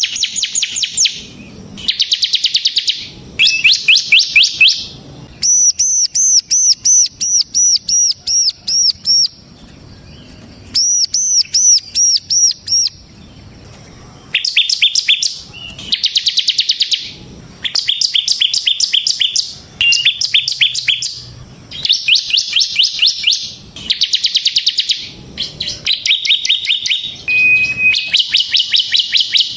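Bar-winged prinia (ciblek) singing in repeated short bursts of rapid, high trilled notes. Twice in the middle the bursts give way to runs of clear, arching whistled notes, about three a second.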